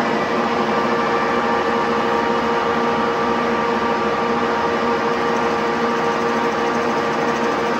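Metal lathe running, a steady machine hum with a constant whine over it.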